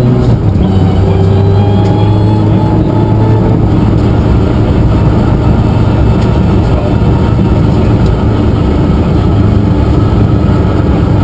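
Suzuki Swift rally car's engine pulling hard at high revs on a special stage, heard from inside the cabin. The engine note drops with a gear change at the very start, then climbs and settles into a steady flat-out drone over a constant rush of road and tyre noise.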